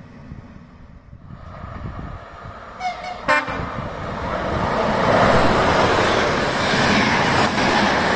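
Train horn gives two short toots of greeting about three seconds in, then the train passes close by, its running noise growing loud from about five seconds in.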